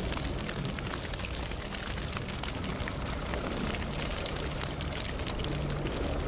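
Campfire burning steadily, with a constant low rumble of flames and frequent sharp crackles and pops from the burning wood.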